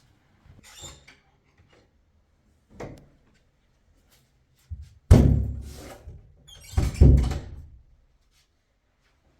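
Two loud, heavy thuds about two seconds apart, each dying away over most of a second, after two fainter knocks earlier on.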